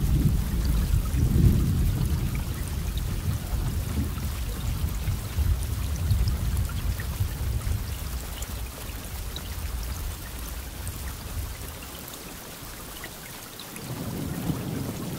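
Thunderstorm: steady rain with drops pattering, under a long rolling rumble of thunder that is loudest about a second and a half in and dies away over about ten seconds. A fresh rumble of thunder starts near the end.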